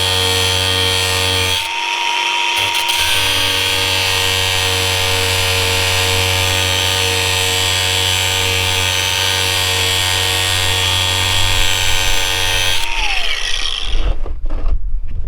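Grinder running and cutting through a link of the old, worn-out motorbike chain, its motor note dipping as it bites into the steel. Near the end it is switched off and winds down in a falling whine, followed by a few knocks.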